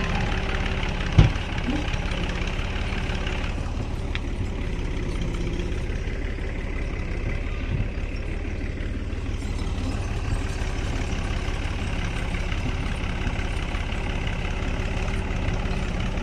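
Tractor engine running steadily after being started on the self-starter, with one sharp knock about a second in.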